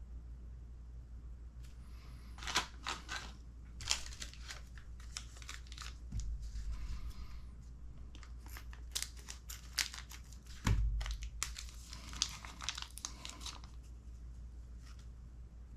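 Plastic parts bag crinkling and tearing, with irregular clicks of small kit parts being handled and two dull thumps on the bench, one about six seconds in and one near eleven seconds.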